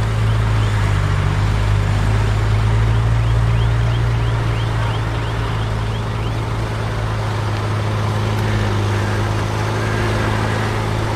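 Heavy diesel engine of earthmoving equipment running steadily, with a strong low hum. A run of faint, quick high chirps sounds over it in the first half.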